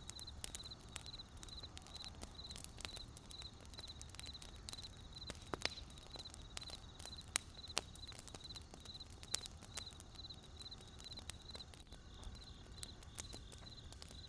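Wood fire crackling with irregular sharp pops, two louder ones a little past the middle, over a low rumble, with a high chirping that repeats a few times a second throughout.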